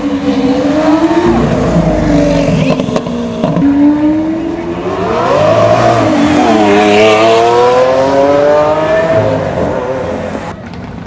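Lamborghini Aventador's V12 revving as the car drives past, its pitch swinging up and down with the throttle, then a long climbing rev in the second half before the sound falls away near the end.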